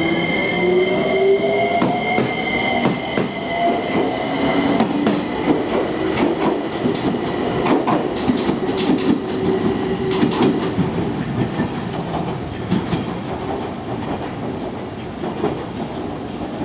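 JR Kyushu 817 series electric train pulling away, its inverter motor whine rising in pitch over the first few seconds along with a steady high whine. The whine then fades into the clatter of wheels over rail joints and a running rumble.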